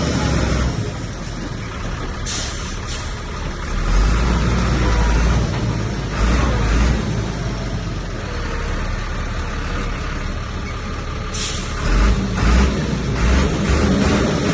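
Heavy diesel engine of earth-moving machinery running under load, its low rumble surging several times. Short sharp hisses come about two seconds in, again soon after, and near the end.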